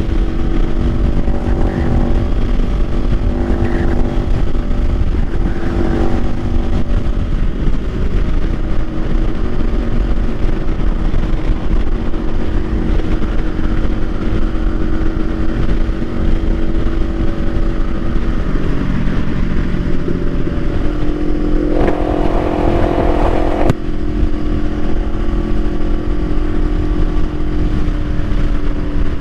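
Kawasaki Ninja 500's 451 cc parallel-twin engine running at road speed under a constant low rushing noise. Its pitch dips about two-thirds of the way through, then climbs again with a brief louder, brighter stretch.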